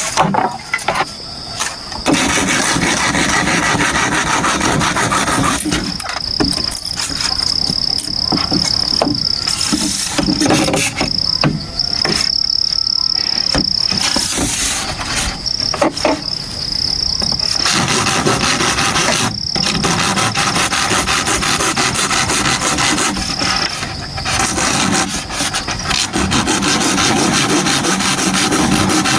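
Bamboo being worked with a hand tool: a loud, continuous rasping of quick strokes, broken by a few short pauses. A high, steady insect drone comes and goes behind it.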